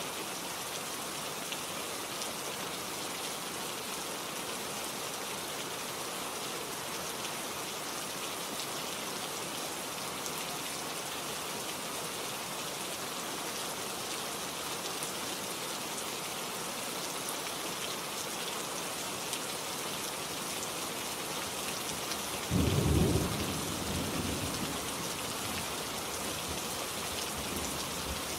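Steady rain falling, with a single loud, low crack of thunder about three-quarters of the way through that rumbles away over a couple of seconds.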